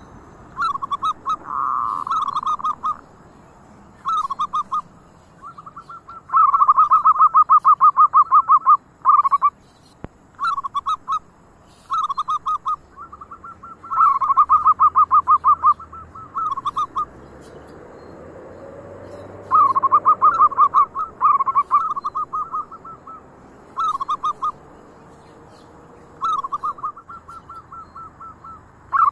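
Zebra doves (perkutut) cooing: repeated phrases of rapid, evenly spaced staccato coos, some loud and close, others fainter as more birds answer. There is a short lull in the middle.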